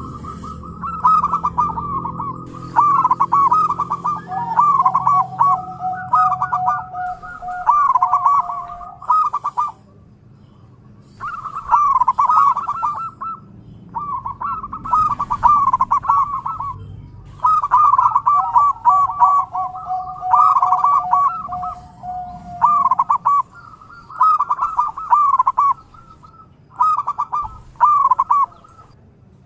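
Zebra doves (perkutut) cooing: repeated phrases of quick, rippling coos broken by short pauses. A long steady lower note runs beneath two of the phrases.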